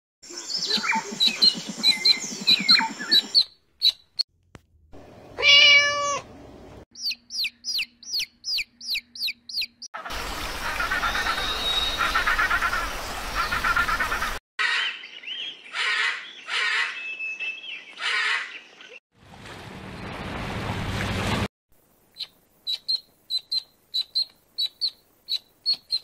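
A string of short animal-call clips joined by abrupt cuts, mostly birds: repeated high chirps and peeps, a rising drawn-out call and a few noisier stretches of calling. It ends with a run of evenly spaced high peeps, about two or three a second.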